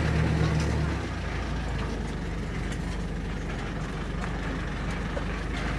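Safari game-drive vehicle's engine running with a steady low hum, dropping to a quieter idle about a second in.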